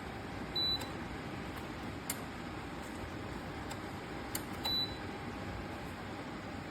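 Two short high-pitched beeps about four seconds apart, typical of an electric space heater's control panel acknowledging a setting change. They sound over the heater's steady fan hiss, with a couple of faint clicks between them.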